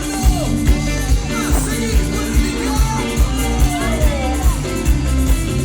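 Live cuarteto music: a band playing with a steady beat of about two strokes a second, with a voice singing over it.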